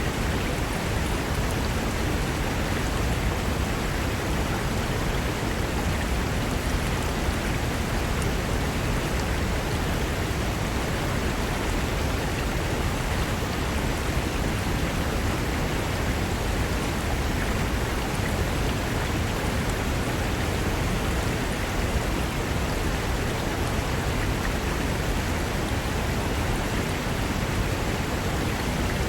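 Mountain river rushing over rocks: a steady, even roar of water without a break.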